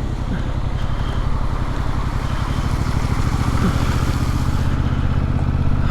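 Yamaha MT-07's parallel-twin engine running at steady low revs as the bike rides through, with a steady rushing noise over it that grows slightly louder.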